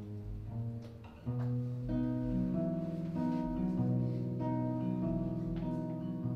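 Guitar playing sustained chords with no singing; the chords change every second or so, with a louder chord coming in a little over a second in.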